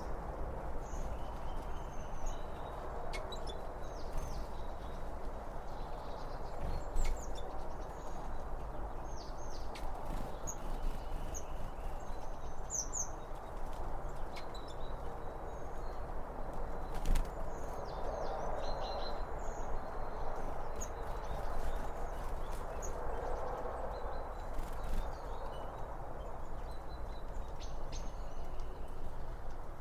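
Birds chirping now and then over a steady rushing background noise, with a few sharp clicks.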